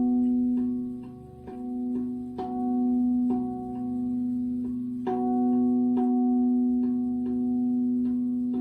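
Resonant metal instruments struck one note after another, about one or two strikes a second, their long ringing tones overlapping into a sustained chord, as in sound-healing meditation music.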